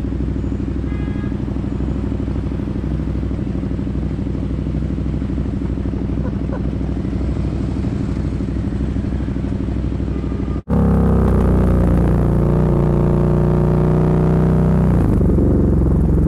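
Motorcycle engine idling with a steady pulsing beat; after a sudden cut about ten seconds in, a motorcycle engine running louder on the move, its pitch rising and falling with the throttle.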